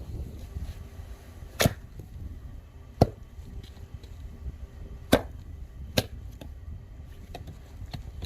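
Four sharp strikes of a blade chopping firewood, spread over about four and a half seconds, with the last two close together.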